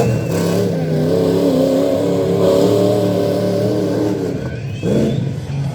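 Ford Ranger's 351 Windsor V8 running hard at high revs on an off-road race course. The revs drop briefly about four seconds in, then pick up again.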